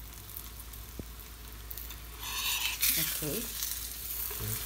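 Chapati frying in oil in a flat pan: a steady sizzle that swells louder for about a second midway.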